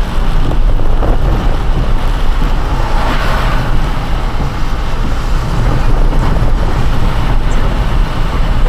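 Car driving on a wet road in the rain: steady, loud low rumble of tyres and road noise with a hiss of water, swelling briefly about three seconds in.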